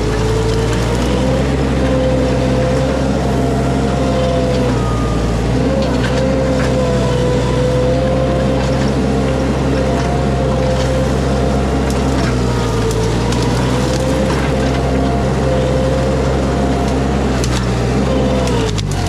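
Mini skid steer engine running steadily under load, with a wavering hydraulic whine, as it rips out shrubs with scattered woody cracks. The engine note drops near the end.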